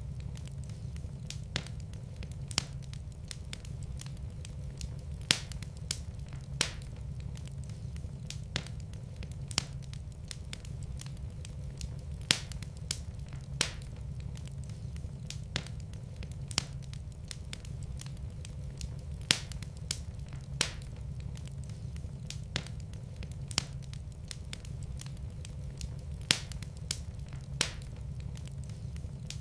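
Wood fire in a fireplace crackling, with sharp pops every second or so over a low steady rumble.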